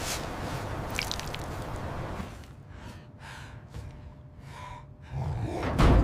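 A steady rush of noise with a low rumble, then a few short breaths, and a heavy low thud near the end.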